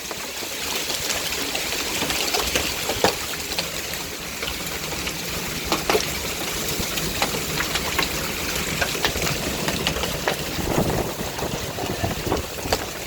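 Heavy downpour of rain and hail, with irregular sharp clicks of hailstones striking hard surfaces and splashing into standing water.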